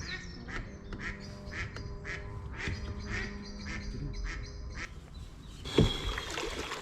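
Ducks quacking over and over in quick calls, with one sharp knock about six seconds in.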